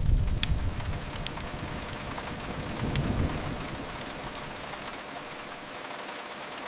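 Steady rain hissing against a window, with a couple of sharp fireplace crackles in the first second or so. Under it a low rumble fades, then swells again about three seconds in and dies away.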